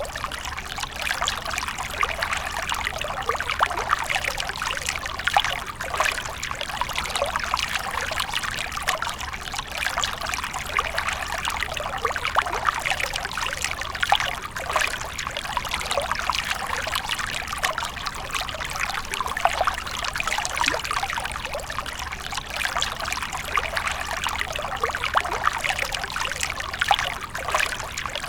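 Water from a fountain splashing and trickling steadily, with many small splashes.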